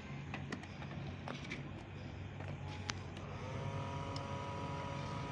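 A few sharp clicks, then about three seconds in the small battery-powered DC motor of a homemade cardboard vacuum cleaner spins up and runs with a steady whine.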